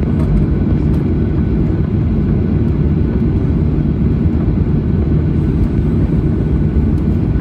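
Steady low rumble of a Boeing 737-800's CFM56 jet engines and airframe, heard from inside the passenger cabin.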